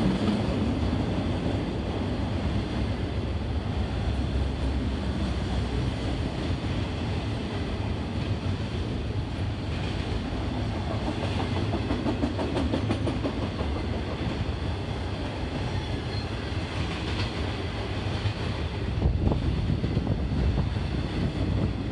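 Intermodal freight train's double-stack container cars and trailer flatcars rolling past: a steady rumble of steel wheels on rail with clicking over the rail joints, swelling louder about nineteen seconds in.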